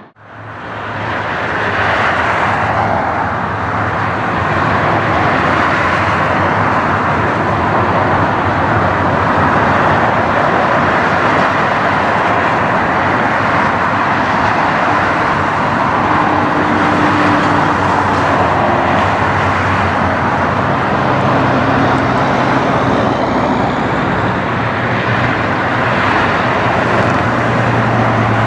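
Boeing 747-400 airliner's four turbofan engines running with a steady jet roar, with a low hum beneath.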